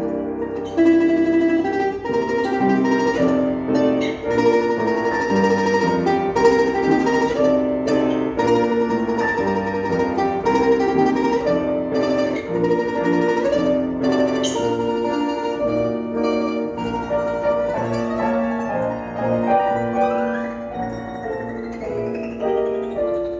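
Instrumental music: a plucked string instrument plays a flowing melody with accompaniment.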